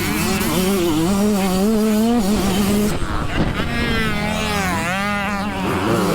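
Several dirt bike engines buzzing and revving on a motocross track, their pitch rising and falling as throttles open and close.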